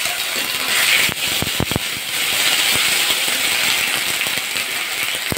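Ginger-cumin paste and whole spices sizzling in hot mustard oil in a metal kadai, stirred with a metal spatula that scrapes and clicks against the pan, with a quick run of knocks about a second and a half in.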